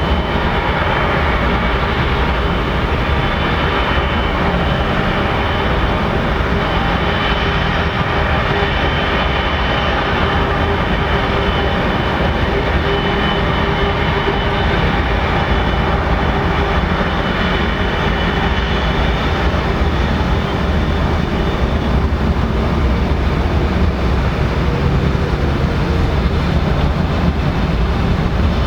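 Aircraft jet engines running at a steady level, with a faint high whine over the noise.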